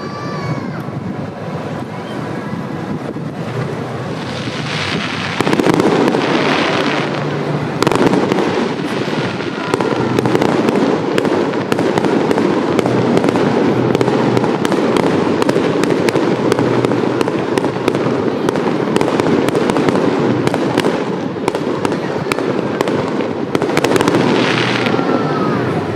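Fireworks display: a continuous barrage of shells bursting and crackling in rapid succession, getting louder about five seconds in and staying loud.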